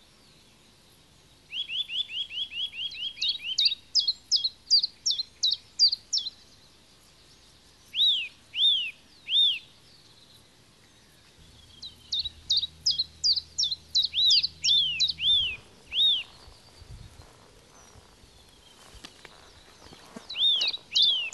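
A songbird singing: four bouts of rapid, repeated chirping notes, each a second or a few seconds long, with short pauses between them.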